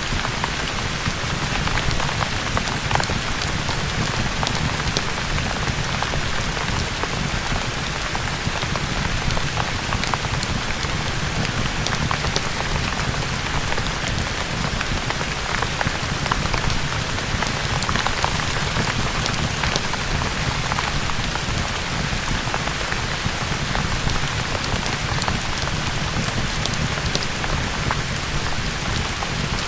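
Steady rain falling, an even hiss with scattered small ticks and pops throughout.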